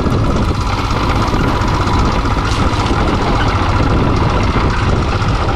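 Royal Enfield single-cylinder motorcycle engine running steadily, deep and even in pitch.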